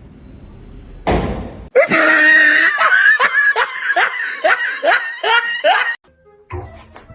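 Laughter: a run of short, pitched, hooked cries, about three a second, after a brief noisy burst about a second in.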